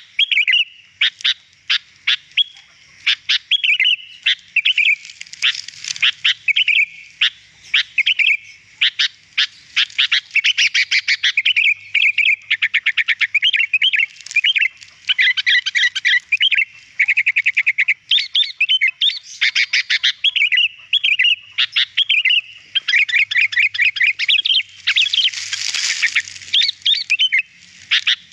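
Sooty-headed bulbul (kutilang) singing continuously in quick chattering phrases of chirps and whistled notes. There are fast trills about midway and a harsher, rasping burst near the end.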